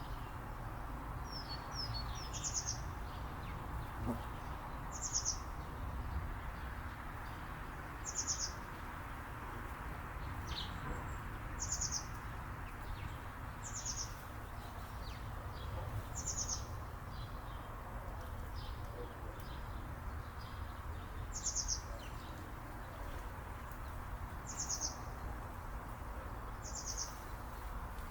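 A songbird repeating a short, high, fast trill about every two to three seconds, with a few softer chirps between, over a steady low background rumble.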